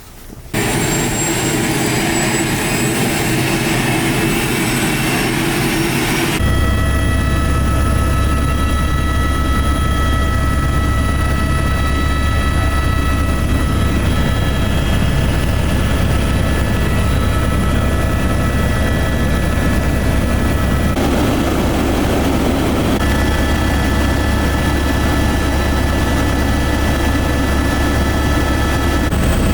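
Helicopter turbine engine and rotor heard from inside the cabin: a loud, steady drone with a heavy low hum and several high, steady whining tones, abruptly changing in character about six seconds in and again around twenty-one seconds.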